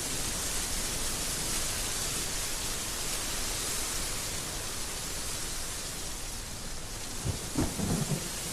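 Heavy rain falling steadily, a dense even hiss, with a few short low rumbles about seven seconds in.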